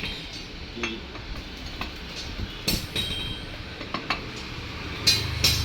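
Irregular metallic clinks and knocks of hand tools and bolts as a homemade flywheel puller is set up on a motorcycle engine, a few of them ringing briefly. A background music track with a steady beat comes back near the end.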